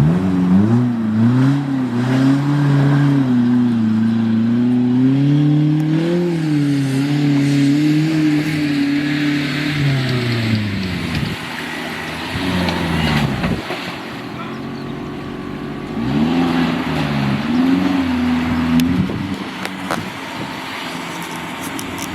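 Off-road 4x4's engine revving hard under load, its pitch rising and falling unevenly. About halfway through it drops back, then revs up again for a few seconds near the end.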